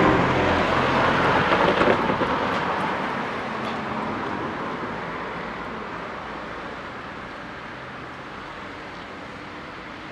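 Rumble of a train moving away from a railway level crossing, loud for the first couple of seconds and then fading steadily, as the barriers lift and a car drives over the tracks.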